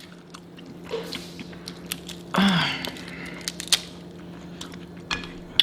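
Close-miked eating of a seafood boil: chewing and wet mouth clicks, with a brief louder noisy stretch about halfway through. A steady low hum runs underneath.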